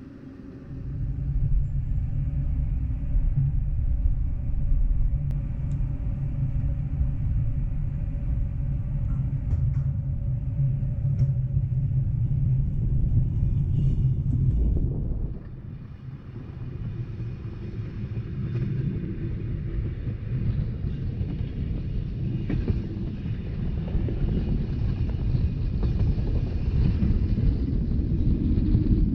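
Rhaetian Railway narrow-gauge train running on its rails, a loud low rumble. It comes in suddenly about a second in, cuts off sharply about fifteen seconds in, then builds back up.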